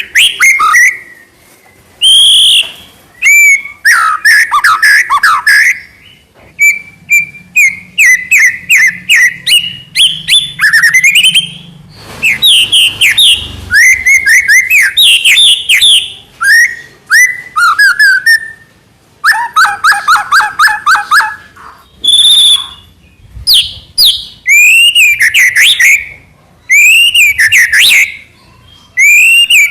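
White-rumped shama singing loudly in a long, varied string of whistled phrases, rapid trills and chattering notes, broken by short pauses.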